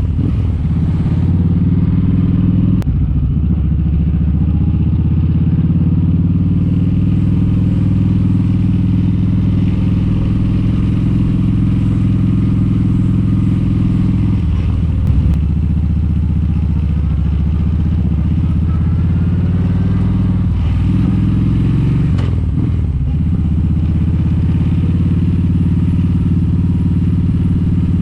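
Kawasaki Vulcan 1700 Vaquero's V-twin engine running steadily while the motorcycle cruises at highway speed, heard from on the bike. The engine note dips briefly about four times.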